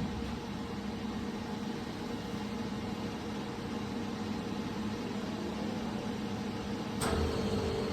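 Steady mechanical hum with a hiss, like a running fan or motor. A sharp click comes about seven seconds in, after which the hum is slightly louder.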